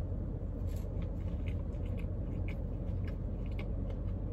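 A person chewing a mouthful of soft bread and a sauced chicken nugget, with small wet clicks and crackles of chewing over a steady low hum.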